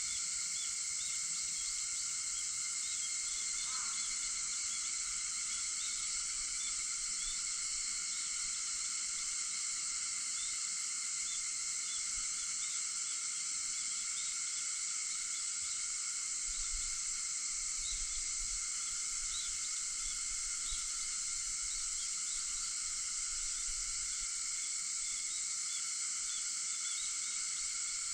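Chorus of cicadas: a steady, unbroken shrill drone, with small chirps scattered through it and one short rising call a few seconds in.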